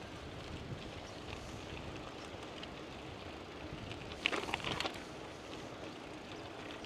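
Steady rush of wind and rolling bicycle tyres during a ride, with a brief rattle of clicks about four seconds in.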